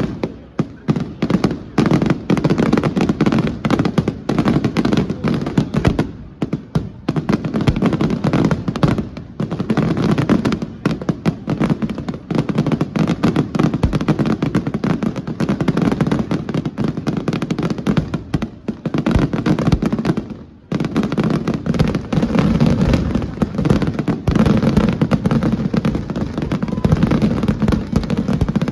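Festival fireworks: a dense, continuous barrage of firecracker and firework bangs, with brief lulls about six, nine and twenty seconds in.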